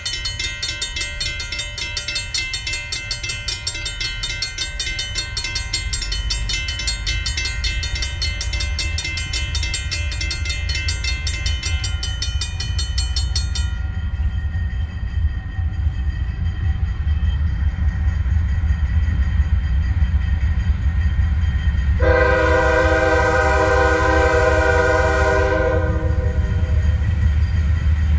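Diesel-hauled freight train approaching, its locomotive's engine rumble growing steadily louder. The locomotive's air horn blows one long blast about two-thirds of the way in. A high ringing pattern of many steady tones sounds through the first half and stops about halfway through.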